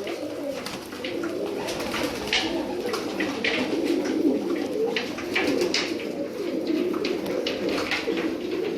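A loft full of domestic pigeons cooing together in a dense, continuous murmur, with scattered short clicks over it.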